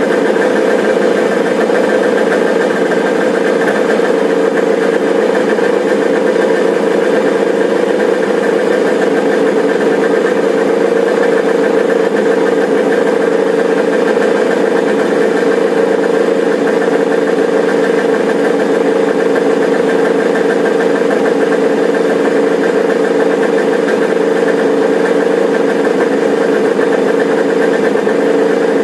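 Freshly rebuilt Kawasaki H1 500 three-cylinder two-stroke engine running steadily with no revving.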